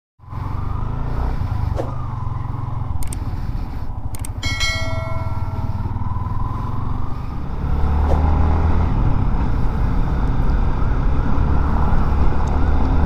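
Motorcycle riding sound picked up by a glove-wrapped lapel mic: the engine running and steady wind rumble on the microphone, a little louder from about eight seconds in. A brief ringing, horn-like tone sounds about four and a half seconds in, and a wavering siren starts near the end.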